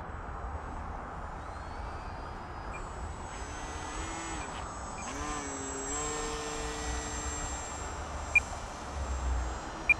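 Electric motor and propeller of a model Air Tractor airplane whining in flight, gliding in pitch about four to five seconds in and then holding steady, over wind rumble on the microphone. Two short high beeps sound near the end.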